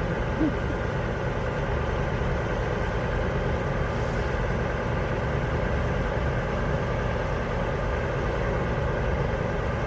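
Vehicle engine idling steadily, a continuous low rumble, with a faint steady high-pitched whine over it.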